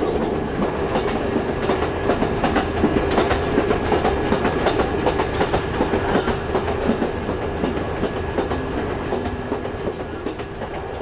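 Metre-gauge diesel railcar of the Chemins de Fer de Provence running along the line, with a steady drone and the wheels clicking over the rail joints. The sound eases off slightly near the end.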